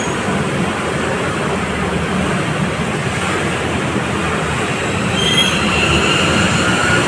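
Steady, loud vehicle running noise, with a high squealing tone coming in about five seconds in.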